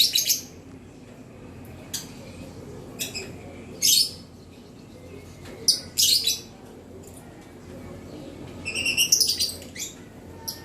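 Gloster canary giving short, high chirps every second or two, with a quicker run of notes about nine seconds in.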